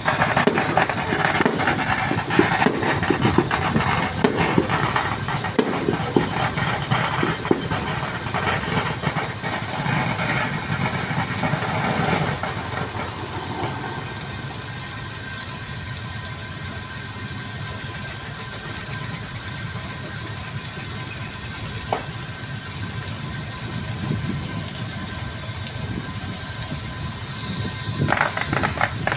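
Squid-fishing boat's engine running steadily. It is louder and busier for about the first twelve seconds, then settles to a lower, even sound before picking up again near the end.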